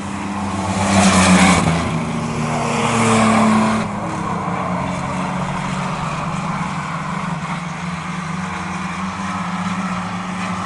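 Racing trucks' engines running at speed around an oval track. They swell loudly as they pass about a second in and again around three seconds, then settle into a steady drone.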